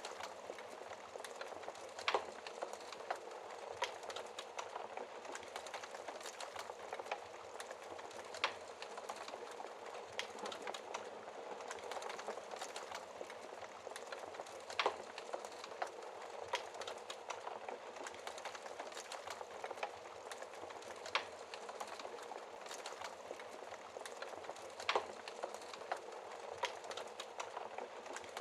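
Wood fire crackling, with frequent small clicks and a sharp louder pop every few seconds, over a steady hiss of rain.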